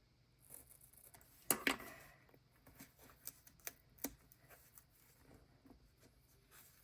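Light clicks and taps of craft tools, tape and paper being handled on a desk, with two sharper clicks about a second and a half in and a few more around three to four seconds.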